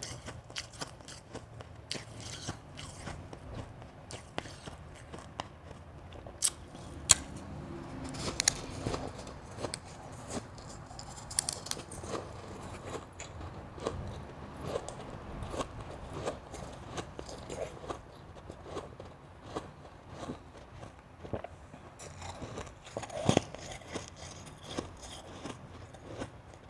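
Close-miked biting and chewing of crunchy ice: a run of irregular sharp crunches, with a few louder bites standing out.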